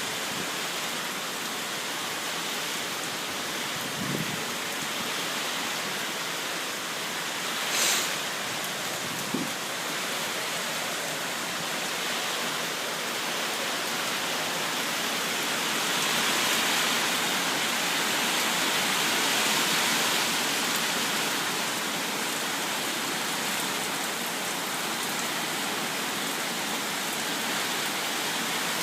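Steady heavy rain from an approaching typhoon, a continuous hiss that swells louder for a few seconds past the middle. There is a brief sharper hiss about eight seconds in and a couple of faint knocks.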